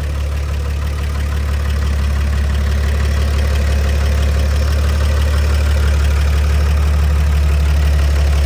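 1953 Chevrolet 6100 truck's straight-six petrol engine idling steadily, heard close at the open engine bay. It runs evenly, with a smooth, regular low beat and no misfiring or hesitancy.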